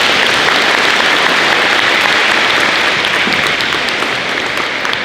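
Audience applause from a large crowd in a gym, dense and steady, tapering off slightly near the end.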